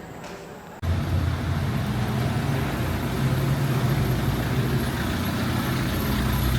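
An engine running steadily with a deep, loud hum. It starts abruptly about a second in.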